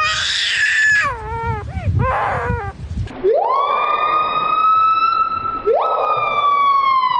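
A bird calling: first a run of short, wavering calls that bend up and down in pitch, then two long wails that each rise quickly, hold steady and fall away.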